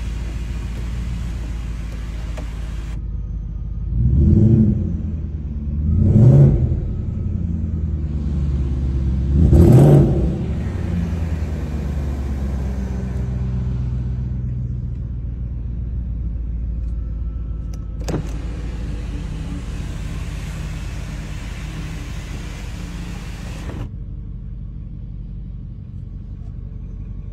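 BMW E38 7 Series V8 engine heard from inside the cabin. It revs up and falls back three times in quick succession, then settles into a steady low running note.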